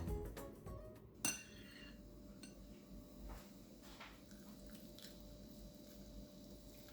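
A few faint clinks of cutlery and dishes, with one sharper clink about a second in.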